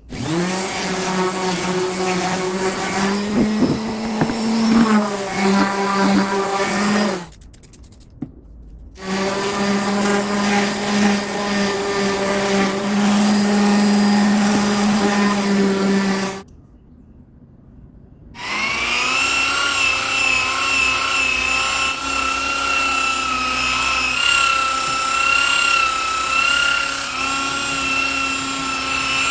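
Electric power tool motor run three times: each time it spins up quickly to a steady high whine, runs for several seconds and stops, with short pauses between runs.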